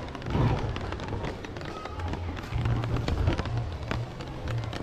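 Outdoor ambience in rain: a steady low rumble of wind on the microphone, with scattered light ticks and taps throughout.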